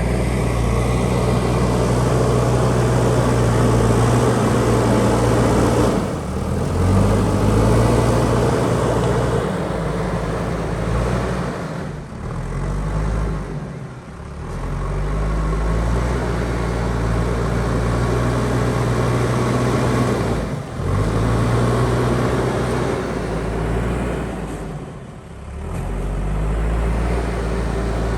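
JCB backhoe loader's diesel engine running under working load, its note dropping and then climbing back about four times as the load and throttle change.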